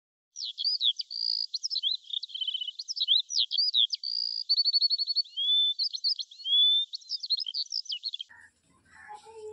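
Songbirds chirping and singing: a busy mix of quick whistled notes, trills and short sliding chirps. It stops about eight seconds in.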